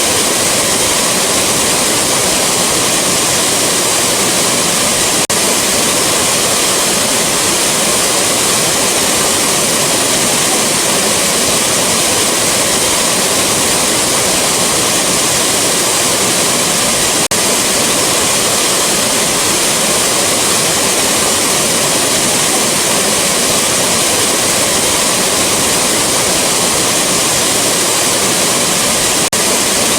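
Rushing waterfall: a loud, steady, unbroken sound of falling water. Faint clicks come about every twelve seconds.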